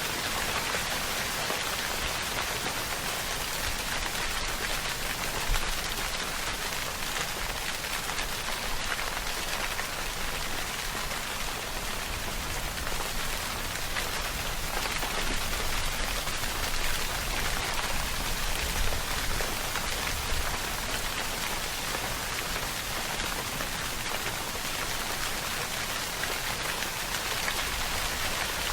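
Steady rainfall, an even hiss of drops on a surface with a low rumble under it.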